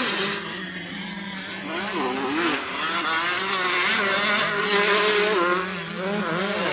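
Several 125cc motocross bikes racing, their engines revving up and down with pitches that rise and fall and overlap, over a steady low hum.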